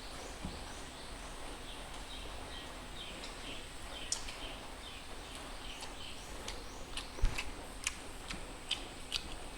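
Eating sounds close to the microphone: scattered mouth clicks and smacks while chewing, with a low knock about seven seconds in.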